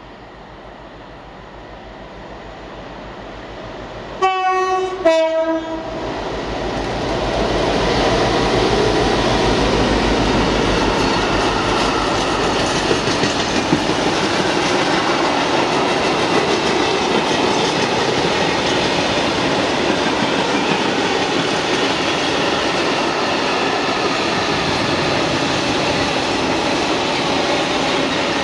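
Colas Rail Class 60 diesel locomotive approaching, with its two-tone horn sounding about four seconds in: a short high note, then a short lower one. It then passes at the head of a long freight train, whose covered steel-carrying wagons rumble steadily by over the rails.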